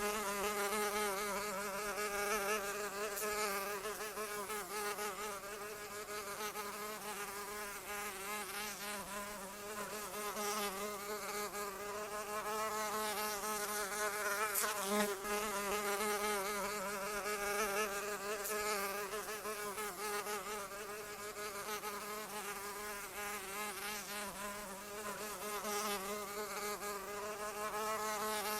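A flying insect's wings buzzing without a break, a steady drone whose pitch keeps wavering slightly up and down.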